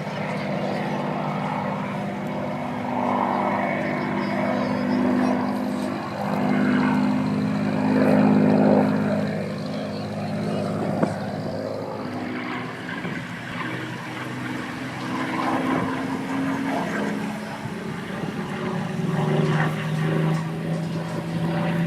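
Vintage piston-engined propeller aircraft flying past overhead, its engine drone shifting in pitch and dropping lower near the end as it passes.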